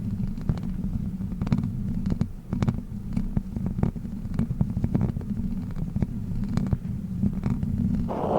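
Plastic witch-finger props (fake fingers with long nails) tapping and scratching right against the microphone. A dense low rumble of rubbing carries many small, irregular, sharp clicks.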